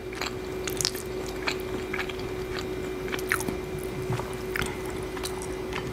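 Close-miked chewing of food, with scattered wet mouth clicks and smacks.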